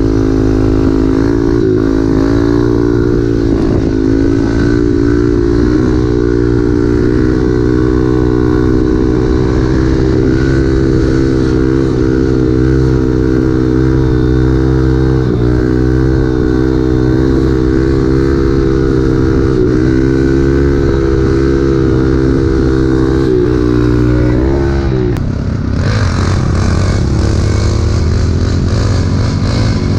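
Pit bike engine running at a steady, fairly constant speed while riding, picked up close by an on-board camera. Its pitch dips slightly a few times. About 25 seconds in, the pitch drops sharply and a hissy noise grows louder.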